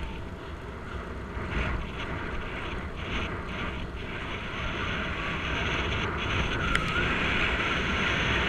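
Wind rushing over the microphone as a bicycle speeds downhill, growing steadily louder as it gathers speed, with a brief thin squeak a little before the end.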